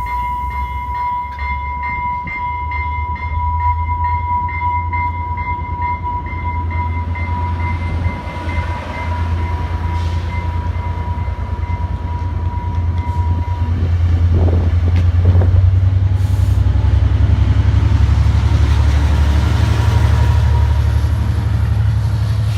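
A train running by with a heavy low rumble. A steady high-pitched tone rings over it and stops about 14 seconds in, after which the rumble grows louder.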